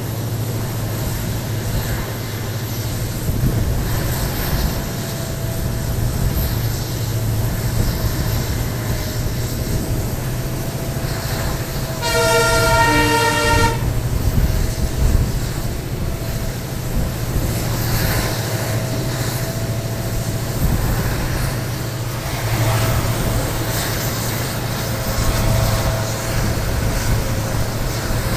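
Passenger train running, heard from onboard: steady rumble and rail noise over the low hum of the EMD WDP4 diesel locomotive. About twelve seconds in, the locomotive's horn sounds once for about a second and a half.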